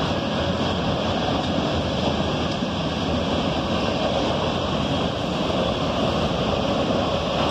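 Freight train cars rolling past, a steady, even noise of wheels on rails.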